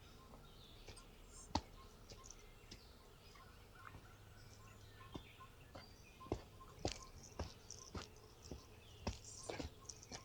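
Faint bird calls and chirps over quiet outdoor ambience, with scattered sharp clicks that come more often in the second half.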